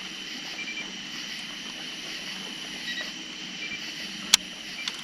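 Quiet night-time outdoor ambience: a steady high hiss with a few brief high chirps, and one sharp click about four seconds in.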